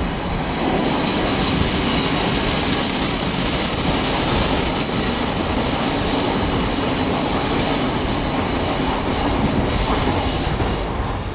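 Five-car Class 800 IET train pulling out and running past, a steady rumble of wheels and running gear with high-pitched squealing tones over it. It swells to its loudest around the middle and eases off near the end.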